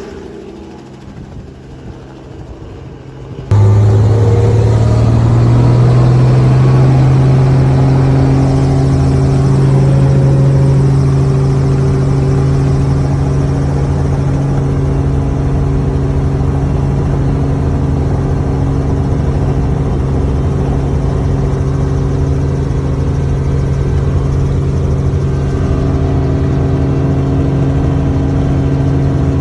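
An engine running steadily with a strong low hum, starting abruptly a few seconds in.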